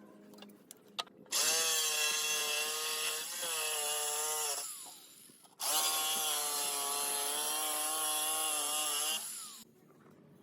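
Handheld electric power tool cutting into wood in two runs of about three and four seconds, its motor whine dipping slightly in pitch under load.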